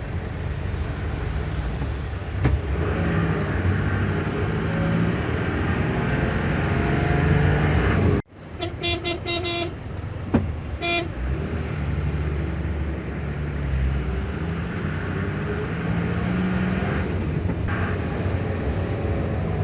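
Road traffic with vehicle engines running and a vehicle horn tooting in a quick string of short blasts about eight seconds in, then once more a moment later.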